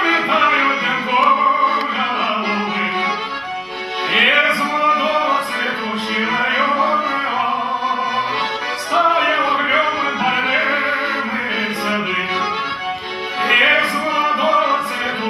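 Live accordion music playing a slow song melody.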